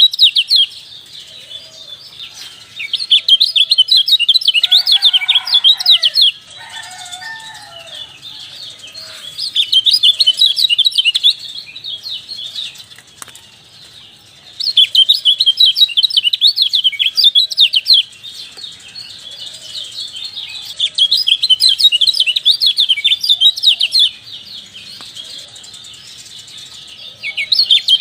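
Kecial songbird calling in loud bursts of rapid, high chirps, each lasting two to three seconds and coming back about every six seconds, with softer chirping in between. A lower, shorter call sounds briefly about five seconds in.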